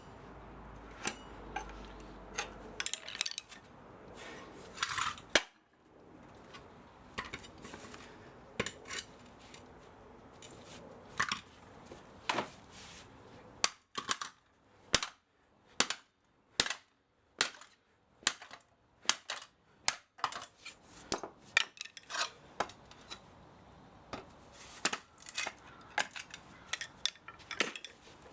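Sharp metal knocks and clinks from hand tools striking an old electric spa motor being taken apart for scrap, irregular at first, then a run of fairly even strikes, one or two a second, in the middle.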